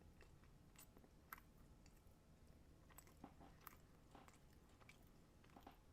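Faint chewing of a microwave beef and bean burrito, with a scattered handful of soft, wet mouth clicks over a quiet room hum.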